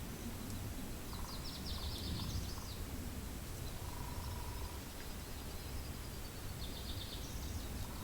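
Steady wind rumble on the microphone with a songbird singing twice: a quick phrase of rapid high repeated notes about a second in, and again near the end.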